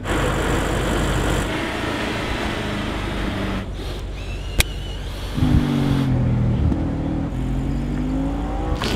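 Audi RS4 Avant's V8 engine running: a steady rushing noise for the first few seconds, then an engine note that falls and rises in pitch as it revs. A single sharp click about halfway through.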